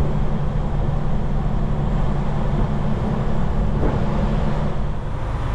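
Semi truck's diesel engine running steadily while driving, a constant low drone mixed with tyre and road noise.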